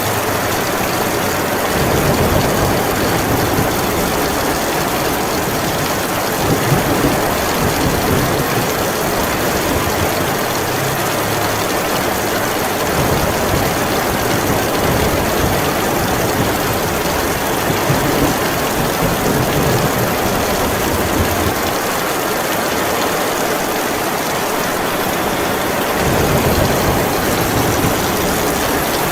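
Heavy rain pouring steadily, with deep rolling rumbles of thunder that swell and die away several times.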